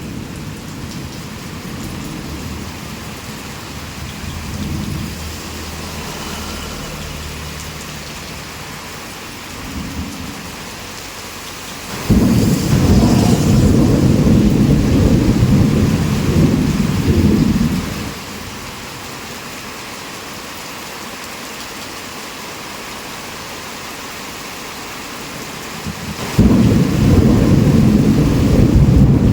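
Heavy rain falling steadily, with thunder rumbling low. Two loud rolls of thunder break in suddenly, one about twelve seconds in that lasts about six seconds, and another near the end.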